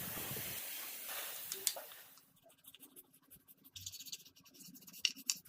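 A steady hiss that stops about two seconds in, then light scratching and small sharp clicks.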